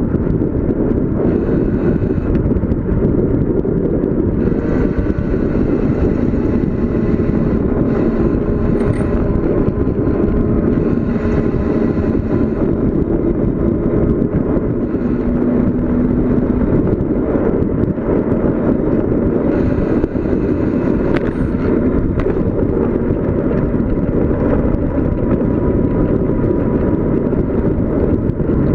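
Steady, loud wind rush buffeting the microphone as a bicycle descends at speed.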